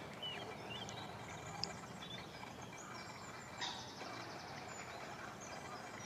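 Faint outdoor ambience with small birds chirping: a few short high notes near the start and a quick high trill about three and a half seconds in.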